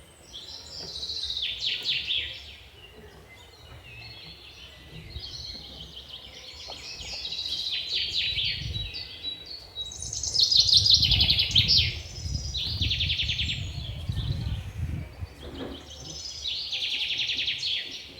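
Small birds chirping in bouts of rapid trills, repeated several times, with a low rumble underneath that grows louder about halfway through.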